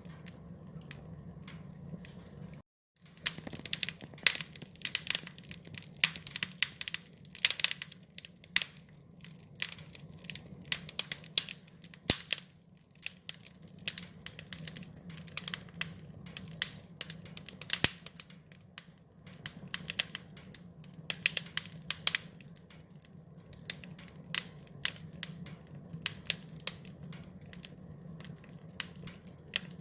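Wood fire crackling and popping irregularly, with a steady low rumble of the flames underneath. The sound cuts out completely for a moment about three seconds in.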